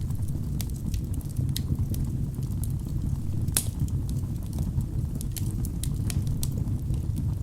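Wood fire burning in a fireplace: a steady low rumble of flames with scattered sharp crackles and pops from the burning logs, one louder pop about three and a half seconds in.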